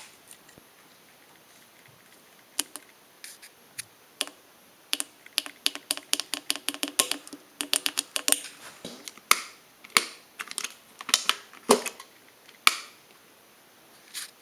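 An irregular run of sharp clicks and taps from hard tools and parts being handled, quickening into a dense patter in the middle and thinning out near the end, some taps ringing briefly like metal.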